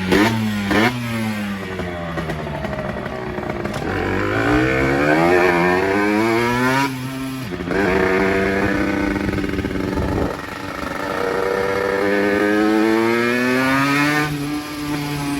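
50cc motorcycle engine revving hard under way, its pitch climbing through each gear and dropping sharply at gear changes, about halfway through and again about two-thirds through, then easing off near the end.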